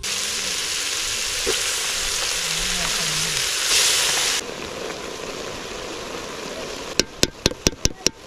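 Meat and tomatoes sizzling in a hot metal pot. The sizzle swells loudest as chopped okra is tipped in about four seconds in, then settles to a quieter sizzle. Near the end comes a quick run of sharp taps.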